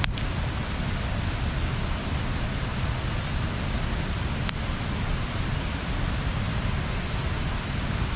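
Wood bonfire burning with a steady hiss and low rumble, and a few sharp crackling pops from the burning wood, one at the start and another about halfway through.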